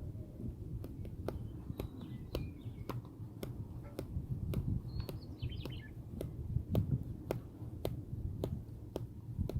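A small bird chirping a few times over a low rumble, with evenly spaced sharp clicks about two a second.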